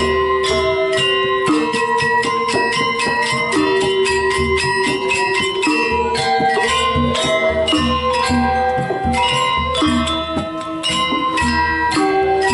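Balinese gamelan playing fast: quick metallic strikes over ringing bronze tones, with a steady low pulse underneath.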